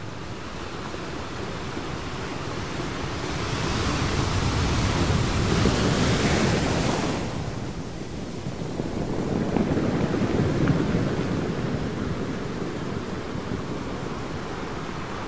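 Ocean waves washing on a shore: a surge of surf hiss about four to seven seconds in that falls back, then a second, smaller surge around ten seconds.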